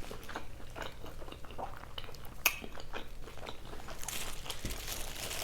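Close-miked chewing of a mouthful of carne asada fries: soft, irregular wet mouth clicks and smacks, with one sharper click about two and a half seconds in.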